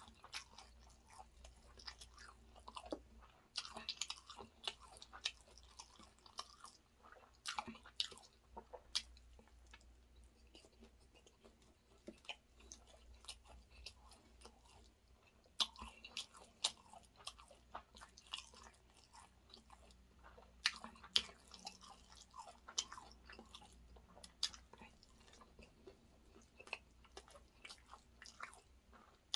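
Close-miked chewing of chicken biryani rice, with irregular sharp wet mouth clicks. There is a quieter stretch in the middle.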